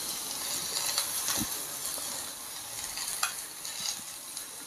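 Garlic, onion and shrimp frying in a pan with a steady, fairly quiet sizzle, with a couple of light taps as the jar of chili flakes and the spoon are handled.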